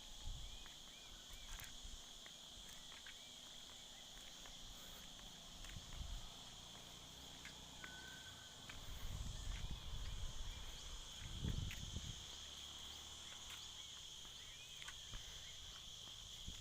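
Steady, shrill chorus of forest insects droning at two high pitches, with faint short chirps scattered through it. A low rumble rises and falls between about nine and twelve seconds in.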